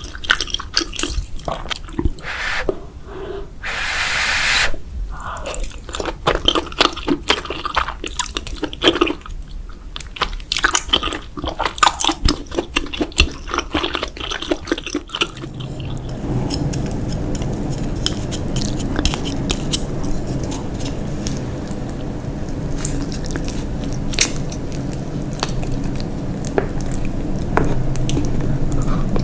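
Close-miked chewing and biting of cheese: dense, wet, crunchy mouth clicks, with one longer noisy bite or slurp about four seconds in. About halfway through, the eating turns softer and a steady low hum comes in beneath it.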